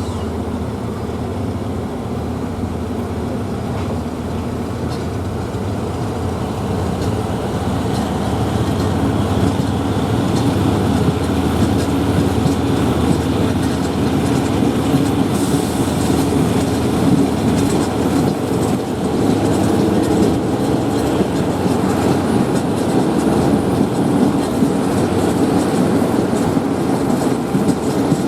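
Passenger train running, heard from on board: steady wheel and rail rolling noise with clickety-clack over the rail joints, growing louder about ten seconds in.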